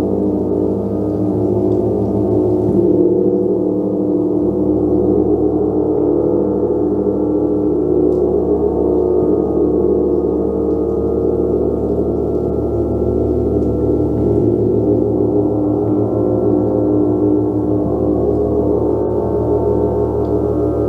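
Gong played continuously, giving a loud, sustained wash of many overlapping ringing tones with an even, fast beating in the deep tones.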